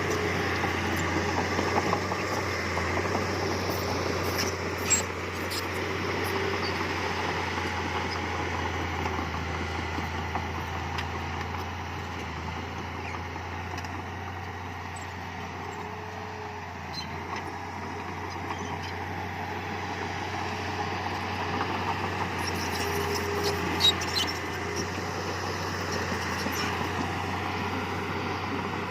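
Heavy diesel earthmoving machinery, most likely a bulldozer, running steadily under load, with a sharp metallic knock about five seconds in and another near the end.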